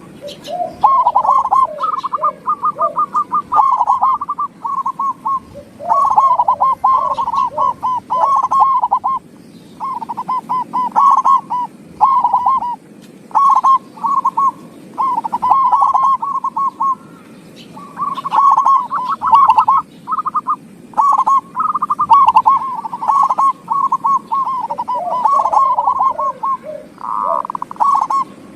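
Zebra dove (perkutut) song: phrase after phrase of rapid, clear, repeated coo notes, with brief pauses between phrases.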